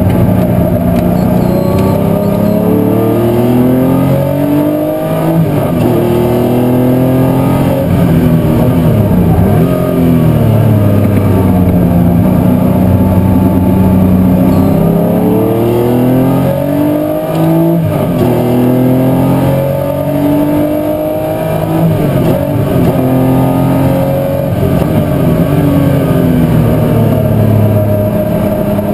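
Historic muscle car race engine at full racing load, its note climbing hard under acceleration, dropping back at each gear change and falling away when lifting for corners, over and over as it laps.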